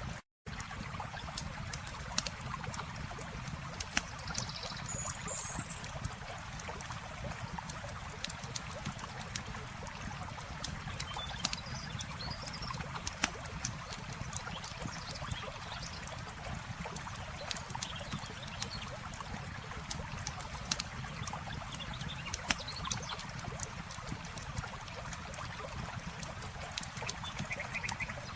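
Campfire crackling with frequent sharp pops over the steady rush of flowing water, with a few faint high chirps. The sound cuts out for a split second just after the start.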